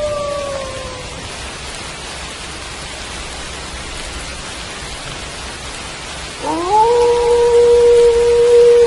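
Wolf howling over steady rain. A howl falls away and fades out in the first second, then about six and a half seconds in another howl rises quickly and holds a long, steady note.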